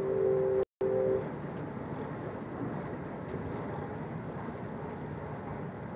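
Passenger train running, heard from inside the coach as a steady rolling rumble. A held two-note horn is sounding at the start and stops about a second in, broken by a brief dropout in the recording.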